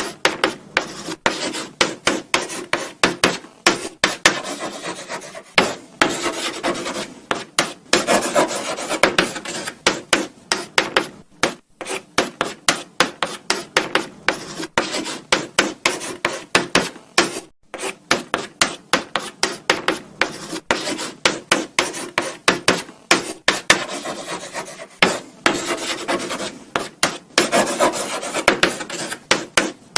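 Chalk writing on a blackboard: a quick run of short taps and scratches, with several longer scraping strokes.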